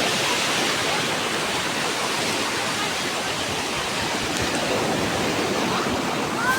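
Rough sea surf: a steady, loud rush of breaking waves.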